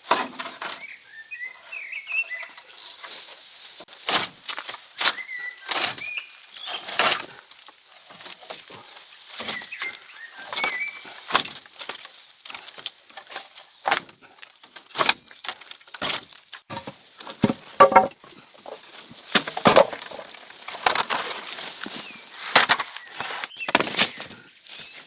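An irregular series of sharp knocks and cracks, the loudest about 18 s in, with short bird chirps now and then, near the start and again about a third of the way through.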